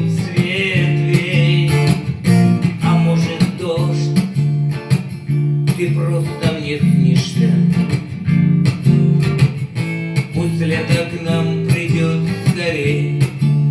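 Instrumental outro of a song: strummed acoustic guitar chords with a steady beat, and a higher wavering melody line over it near the start and again near the end.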